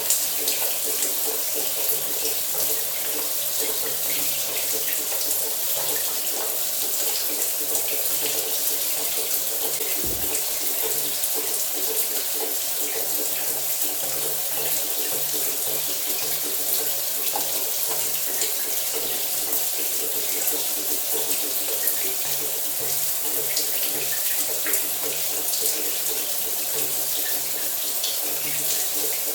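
Shower spray running steadily, water hissing and splashing, with a faint low hum underneath and one brief low thump about ten seconds in.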